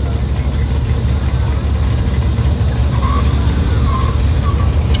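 Steady low rumble of car engines idling, with no revving.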